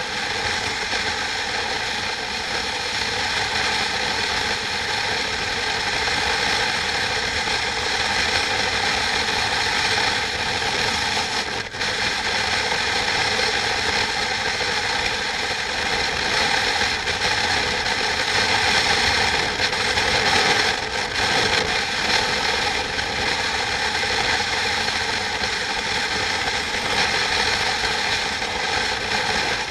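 Machinery running steadily, a continuous mechanical noise with many steady tones and no change in pace.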